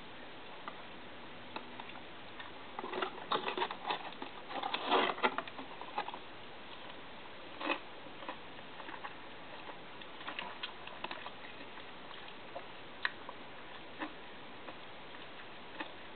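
Scattered small clicks, taps and rustles of someone eating and handling takeout food containers. They are busiest a few seconds in, with single ticks spread through the rest, over a steady low hiss.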